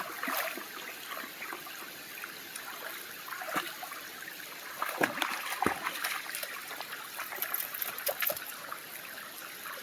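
Water running over a small waterfall into a pond, a steady trickling, with a few short splashes around the middle.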